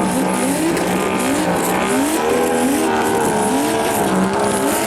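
Turbocharged drift car engine revving over and over in short rising sweeps, with tyres squealing.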